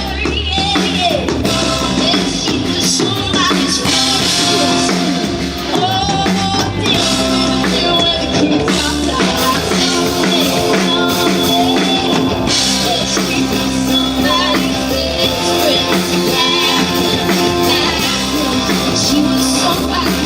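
Live band playing a rock-style song with drum kit, guitar and singing.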